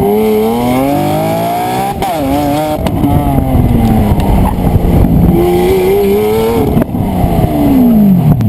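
Lamborghini Aventador LP700-4's V12 through a Larini aftermarket exhaust, revved hard several times. The pitch climbs, then drops off. Sharp cracks come as the revs fall, about two seconds in and again near the end: the exhaust popping and backfiring.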